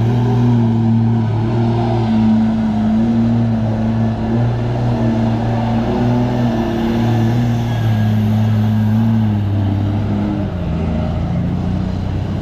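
Heavy diesel trucks driving out, with a loud, steady low drone that holds its pitch and shifts lower about ten seconds in.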